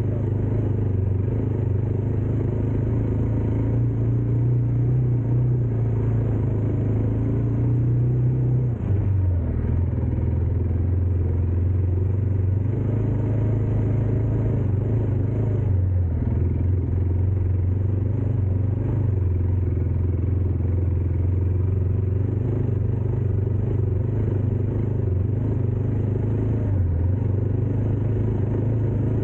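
A motor vehicle's engine runs steadily throughout. Its pitch drops noticeably about a third of the way in and shifts lower again just past halfway.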